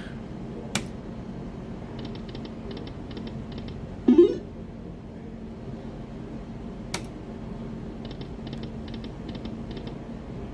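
Aristocrat Buffalo video slot machine cycling through spins: a sharp click about a second in and again about seven seconds in, each followed a second or so later by a quick run of light clicking ticks, with a short louder tone about four seconds in. A steady low hum runs underneath.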